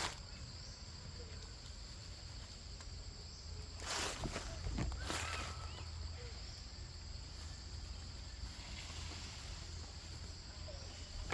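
Insects buzzing steadily at a high pitch under low outdoor rumble, with a couple of brief rustling or scraping noises partway through.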